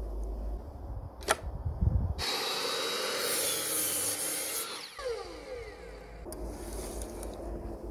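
A power tool runs for about three seconds and then winds down, its pitch falling after it is switched off. A sharp click comes shortly before it starts.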